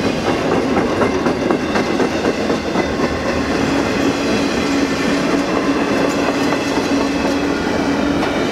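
Intermodal freight train cars rolling past at speed, wheels clicking over the rail joints in a steady clatter. A steady tone joins about three seconds in and holds.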